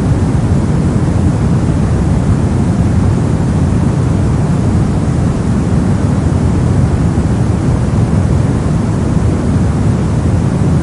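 Steady soft noise for sleep and study: an even, unchanging rushing hiss, deep and heavy at the bottom with little treble.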